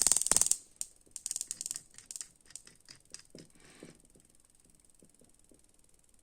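Faulty BMW M52 ignition coil firing on a coil tester: a fast run of sharp spark ticks across the gap, a weak spark, that stops about half a second in, followed by scattered fainter clicks of the parts being handled.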